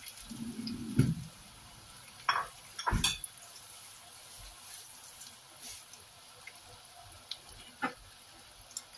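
Breaded pork schnitzel cutlets shallow-frying in oil in a nonstick pan, a steady faint sizzle. A few sharp knocks of a utensil against the pan come about a second in and around two to three seconds in, and once more near the end.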